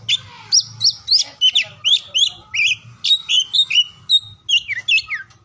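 Oriental magpie-robin (kacer) singing a fast, varied song of short whistled notes and slurs, about three to four notes a second.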